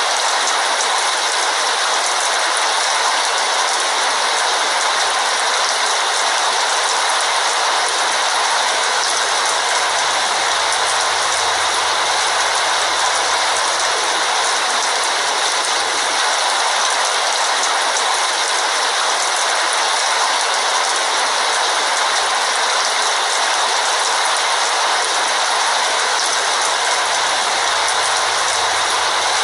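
Heavy rain falling steadily, an even, dense hiss with no breaks.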